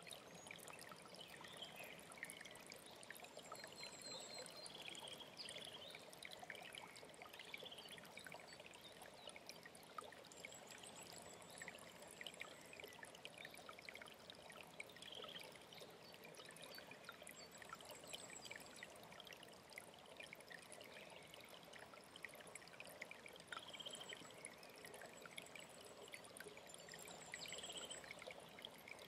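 Faint mountain stream trickling and splashing steadily, with small birds chirping over it and a brief high, thin trill recurring every several seconds.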